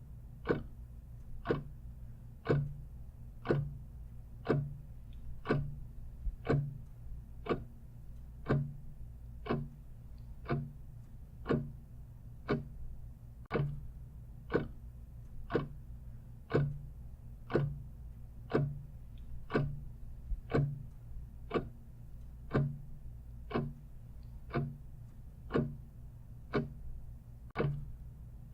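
Clock ticking steadily, about two ticks a second with a louder and a softer tick in turn, over a faint steady low hum.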